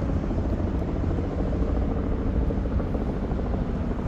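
Helicopter flying, a steady low rotor drone.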